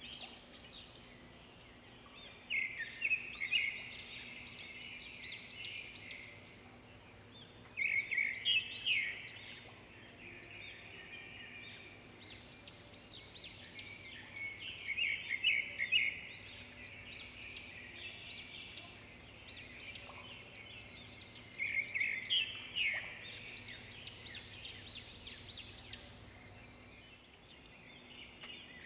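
Small birds chirping in repeated bursts of rapid high notes, over a faint steady low hum.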